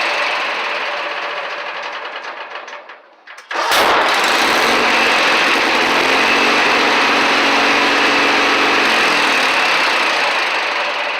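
Kohler Magnum 18 lawn tractor engine running at half throttle dies away as it is shut off, then on restart a single loud bang of a backfire about four seconds in, after which the engine runs steadily again and begins to die away near the end.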